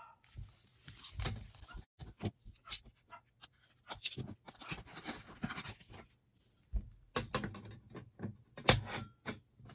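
Irregular clinks, knocks and rattles of metal fire-pit parts being handled, with the loudest knock near the end.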